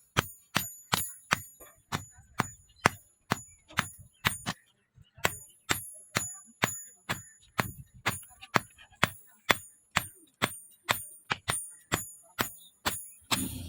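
A hand hammer striking leaf-spring steel on an anvil, about two blows a second with a short pause about five seconds in. Each blow rings sharply like a bell. Just before the end a low hum comes in.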